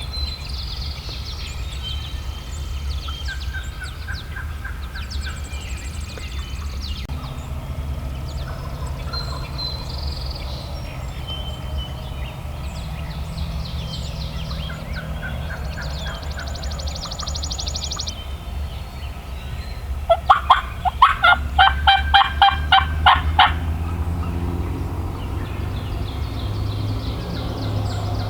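Loud series of about a dozen raspy turkey calls over three seconds, about two-thirds of the way through, with songbirds chirping and trilling throughout.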